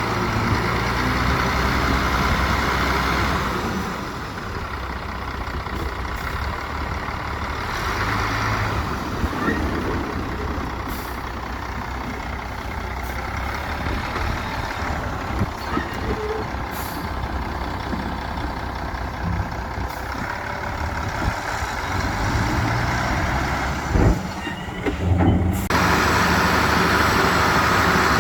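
Diesel engines of heavy earthmoving machinery, dump trucks and a bulldozer, running under load and rising and falling in level as they work. A sharp knock comes near the end, then the engine noise grows louder.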